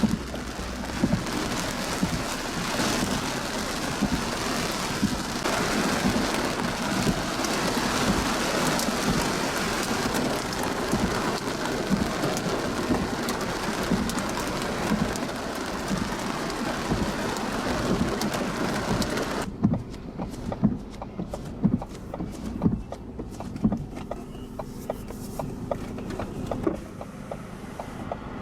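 Heavy wind-driven rain: a loud, dense, steady roar of rain. About two-thirds of the way through it cuts off abruptly to a much quieter scene of scattered sharp drops or knocks over a low hum.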